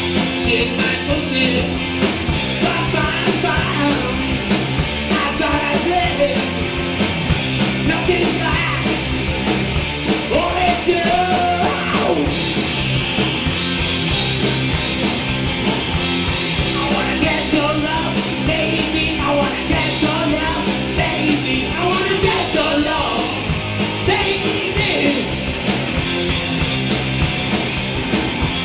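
Punk rock band playing live, with loud full-band music and shouted singing throughout.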